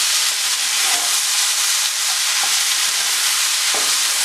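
Chickpea masala sizzling steadily as it fries in a nonstick pan, stirred with a wooden spatula that adds a few light scrapes and clicks.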